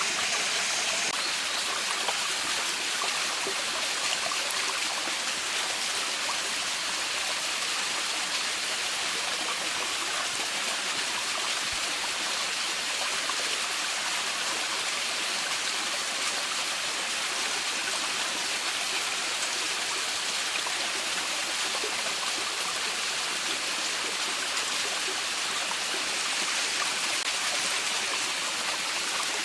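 Mountain stream running steadily over rocks, an even rushing sound.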